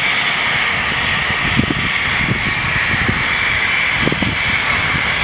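Cessna Citation 560XL business jet's twin turbofan engines at takeoff power: a loud, steady roar with a constant high whine.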